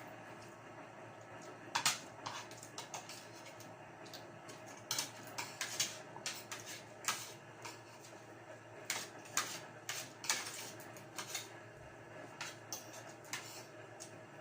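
Spoon and fork clinking and scraping on a plate while eating, in irregular light clicks, over a steady low hum.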